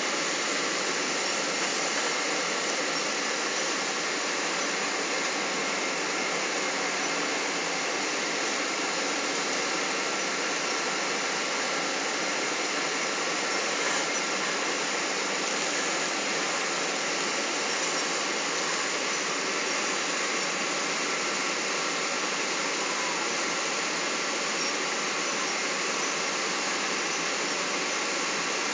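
Steady rushing cabin noise of a Boeing 777 in flight, heard from inside the passenger cabin: airflow and jet-engine noise with a faint steady whine running through it.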